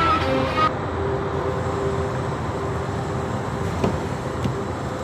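The song's singing and music stop abruptly under a second in, leaving steady vehicle noise with a faint hum and one sharp click about four seconds in.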